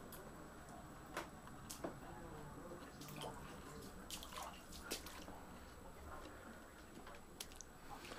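Floodwater dripping and trickling in a basement: scattered single drips over a faint steady wash of running water.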